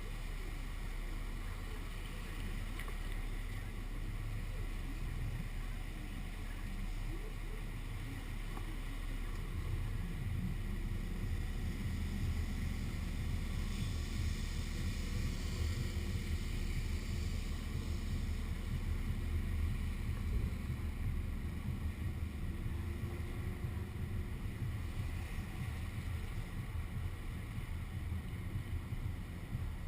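Steady low rumble of a car on the move, road and wind noise, picked up by a camera suction-cupped to the car's window. The rumble grows a little stronger about a third of the way in.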